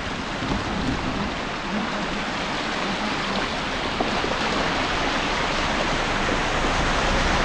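Floodwater rushing in a steady, even noise that grows a little louder near the end.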